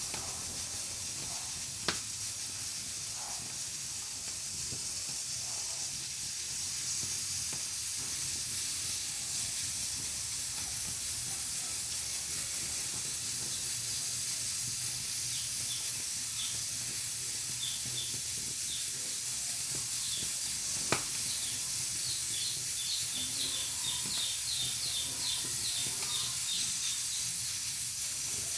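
Pressure cooker on a wood-fired stove venting steam in a steady high hiss at full pressure. Two sharp pops come about two seconds in and again about twenty-one seconds in.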